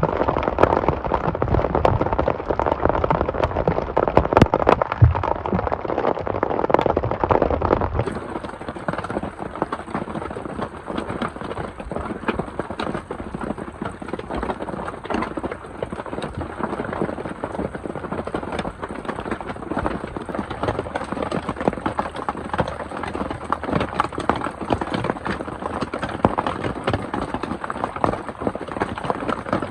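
Heavy rain falling, a dense patter of many drops. About eight seconds in, the sound changes abruptly to a lighter, quieter rain with a faint steady high hiss.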